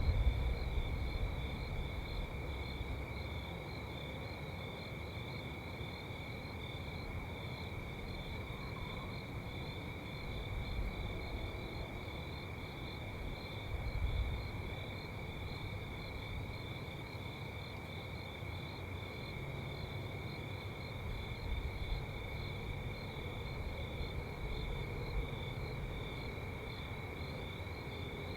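Insects chirring steadily on two high pitches, one of them with a fast pulse, over a low rumble of distant car traffic that swells a few times.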